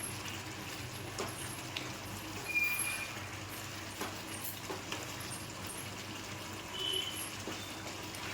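Metal spatula stirring chicken in a kadai, giving scattered light clinks and scrapes against the pan, over a steady low hum.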